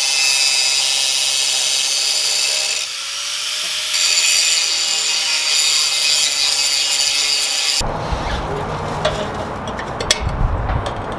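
Angle grinder working on the cut-off body mount metal: a loud, steady, hissing whine that dips briefly and rises again about three seconds in. About eight seconds in it stops abruptly, giving way to a lower rumble with scattered clicks and knocks.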